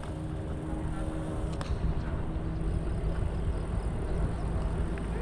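Low rumble of wind and road noise on a bike-mounted GoPro while cycling, with a faint steady hum in the first second or so and a single click.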